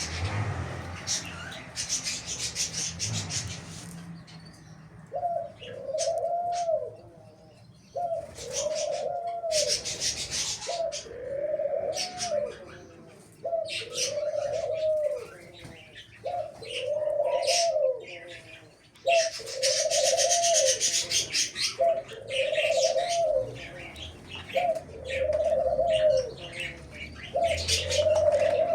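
Aviary birds calling: one bird repeats a low note that rises and falls, about once a second, from several seconds in, over clusters of high, rapid chirps from other birds.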